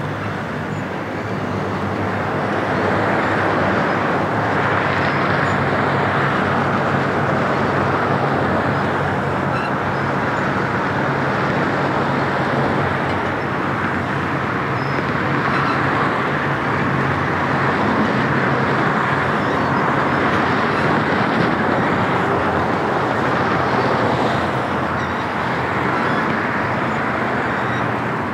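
Double-stack intermodal freight cars rolling past: a steady noise of steel wheels on the rails, growing a little louder about two seconds in and then holding level.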